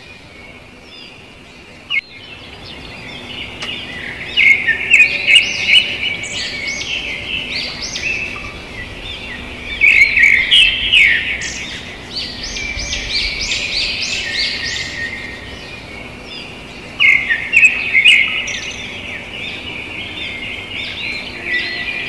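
Birds chirping and twittering, with louder bursts of rapid chirps about four, ten and seventeen seconds in.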